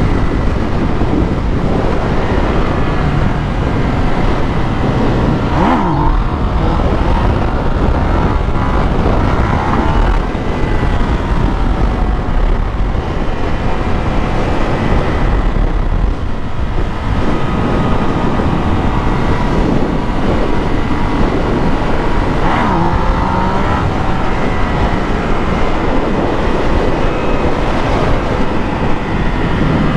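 Motorcycle being ridden, its engine running steadily and loud, with the pitch rising and falling a few times as it revs.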